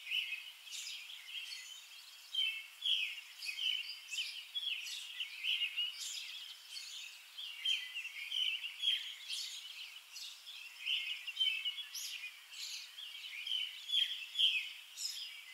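Songbirds singing outdoors: a continuous chorus of short, high chirping notes, some quick upward sweeps among them.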